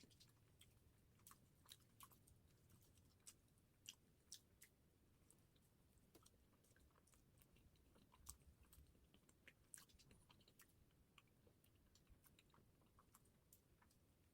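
Close-miked mouth sounds of a person chewing soft bread and cream pastry, quiet, with frequent small wet clicks and smacks.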